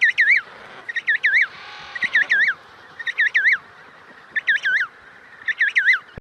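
A bird chirping: short groups of two or three high notes, each dipping and rising in pitch, repeated about once a second.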